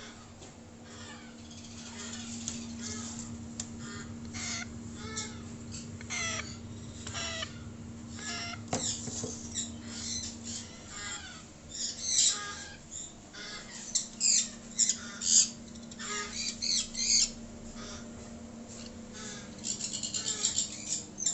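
Parrot chicks giving many short, rapid squawking calls, louder and more crowded in the second half, over a steady low hum from the brooder's fan.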